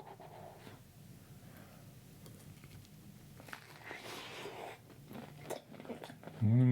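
A person chewing a bite of syrup-soaked blueberry waffle close to the microphone, with soft wet mouth sounds and small clicks. Near the end comes a loud, drawn-out "mmm" hum of enjoyment.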